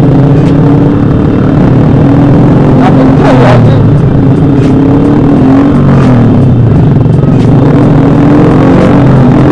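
Motorcycle engine and exhaust running steadily while riding, loud and close, with its pitch dipping slightly and picking up again about six seconds in. A brief higher sound rises and falls about three seconds in.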